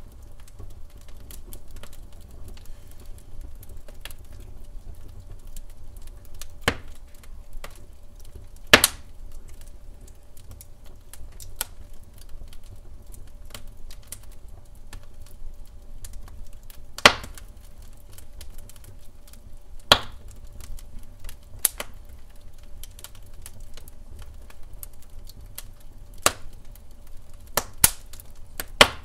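Wood fire burning in a fireplace: a low steady rumble of flames with constant small crackles and, every few seconds, a loud sharp pop from the burning log.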